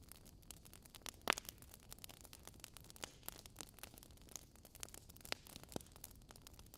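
Wood fire in a fireplace crackling quietly: burning logs give off irregular sharp pops and snaps over a faint hiss, the loudest pop a little over a second in.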